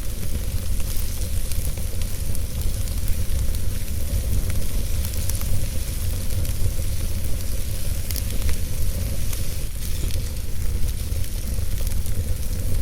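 Wood fire burning in a fireplace: a steady low rumble of flames under a hiss, with frequent small crackles and pops.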